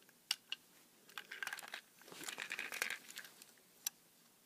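Faint handling noise of a plastic toy engine: a few sharp clicks and two short spells of crinkly rustling.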